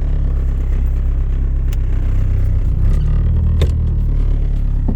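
1990 Eagle Talon TSi AWD's turbocharged 4G63 four-cylinder idling, heard from inside the cabin, with interior trim rattling and a few sharp clicks. The engine note wavers briefly a little past halfway. The car is being logged for a misfire.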